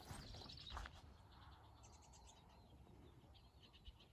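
Faint bird calls: groups of short, quick high chirps repeated several times, starting about two seconds in over quiet open-air ambience. A few soft scuffs in the first second.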